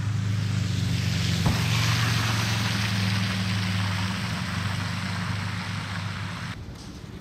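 A vehicle passing on a snow-covered highway: tyre hiss through snow and slush swells about two seconds in and fades off near the end, over a steady low engine and road hum.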